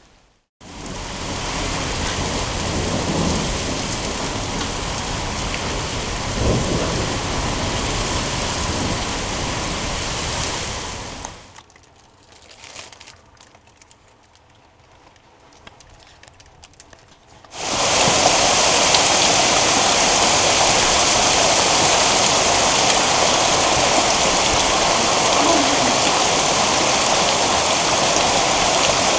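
Thunderstorm with heavy rain as a steady rushing downpour and low rumbles of thunder. About twelve seconds in it drops abruptly to a much quieter patter for some six seconds, then cuts back to an even louder steady downpour.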